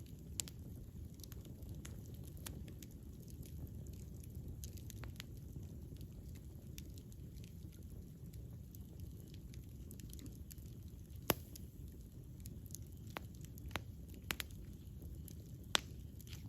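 Campfire burning: wood crackling with irregular sharp pops over a low, steady rush of flame. Two pops in the second half stand out louder than the rest.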